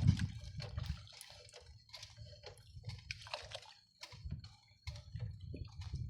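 Water sloshing and dripping, with many irregular small clicks and crackles over a low rumble.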